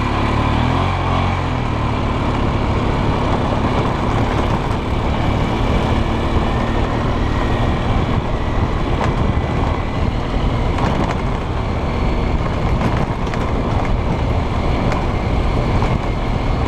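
2002 Polaris Sportsman 500 H.O. ATV being ridden, its single-cylinder four-stroke engine running under a steady rushing noise.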